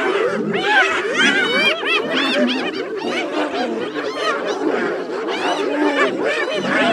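A clan of spotted hyenas giggling and calling over one another: a dense chorus of short cries that rise and fall in pitch.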